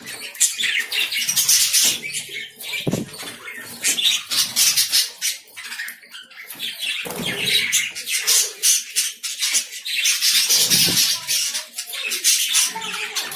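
Pet lovebirds chattering, with scratchy high-pitched calls and quick clicking sounds that come in bouts.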